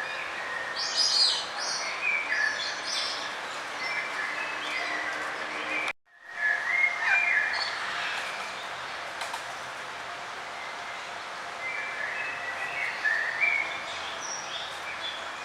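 Small birds chirping and calling in short, repeated notes over a steady background hiss. The sound cuts out abruptly for a moment about six seconds in, then the chirping carries on.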